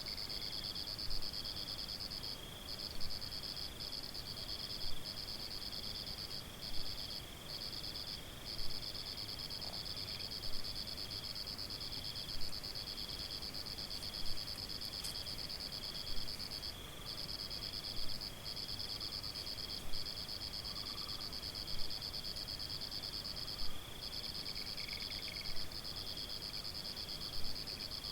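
Crickets trilling in a high, steady chorus with a few brief breaks, and a second, slightly lower insect call pulsing just beneath it. A louder call repeats about every two seconds throughout.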